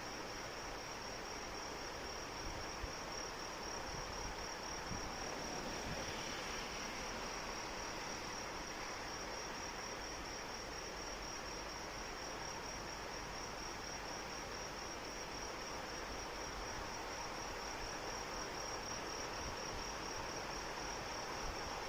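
Steady rain falling, with insects trilling over it in one continuous high trill that never breaks.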